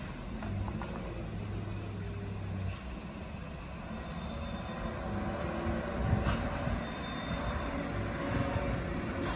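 Heavy truck's diesel engine running with a steady low hum. A few short, sharp sounds cut through it, about three seconds apart.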